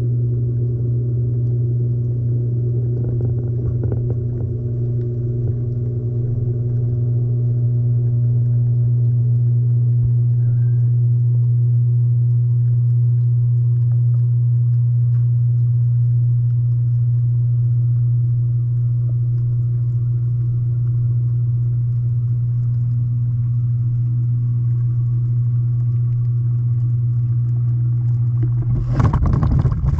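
LG front-loading washing machine heard from inside its drum, the drum turning steadily with a steady low motor hum. A sudden loud rush of noise breaks in near the end.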